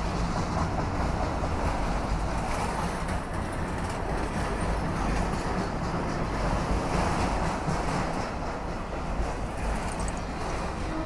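CSX freight train's autorack cars rolling past close by, a steady noise of steel wheels running on the rails.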